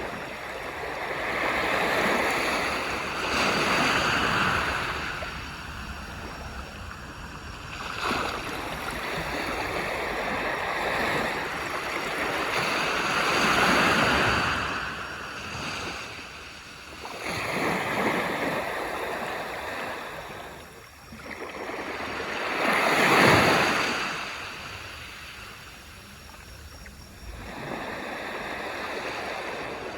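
Sea waves breaking and washing up a beach, surging and receding every few seconds, with the biggest wave breaking about three quarters of the way through.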